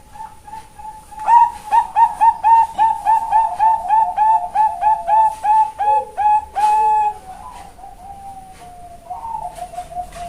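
Female Bangkok-strain zebra dove (perkutut) singing its full song: a soft opening coo, then a fast run of about three short, slightly falling notes a second that ends in a longer held note, followed by softer cooing near the end.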